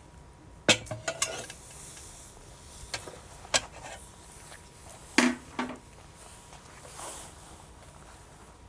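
Wood fire crackling: several sharp pops from burning wood, some in quick pairs, over a faint steady hiss.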